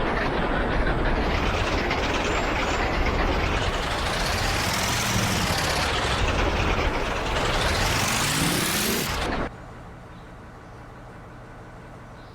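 Railway locomotives passing at speed, a loud rushing, rumbling noise with high tones gliding up and down in it. About nine and a half seconds in it cuts off suddenly, leaving a faint steady hum.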